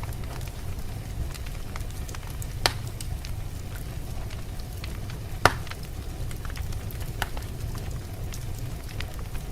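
Wood fire crackling, with scattered small clicks and two louder sharp pops, the loudest about halfway through, over a steady low rumble.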